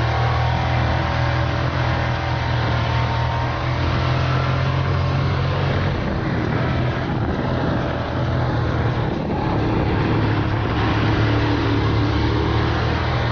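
Dirt-track race car engine running hard at steady high revs, heard from on board; its steady note wavers and blurs for a few seconds in the middle before settling again.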